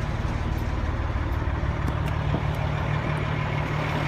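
A 2007 KME rescue fire engine's diesel engine idling steadily.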